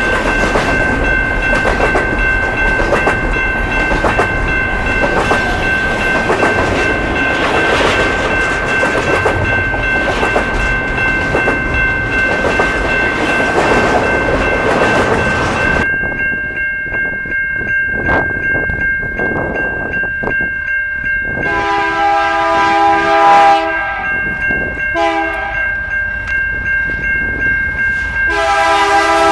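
A double-stack container train passing close by, its wheels clattering over the rails, under a steady ringing tone from the grade-crossing signal. The clatter drops away after about sixteen seconds. A diesel locomotive horn then sounds in two long blasts, and near the end a Canadian National freight locomotive comes on sounding its horn.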